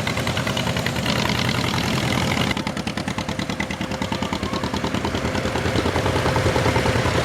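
Farm tractor engines running with a rapid, even beat as tractors pass in a parade. The sound drops a little a few seconds in, then grows louder again near the end as another tractor comes closer.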